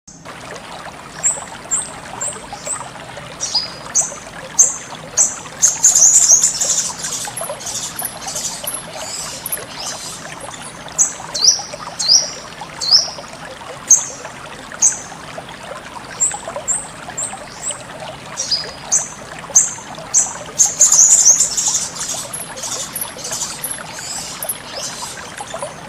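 Sogon bird calling: a series of sharp, high chirps, many falling in pitch, with two bursts of rapid twittering, about six seconds in and again near twenty-one seconds. Under it, steady trickling of flowing water.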